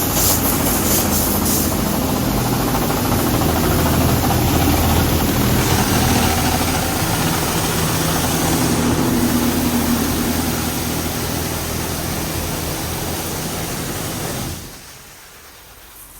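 Oasis Typhoon automatic car wash spraying the car on its sealer pass: a steady rush of water spray over the hum of its pump, which cuts off suddenly near the end, leaving a faint hum.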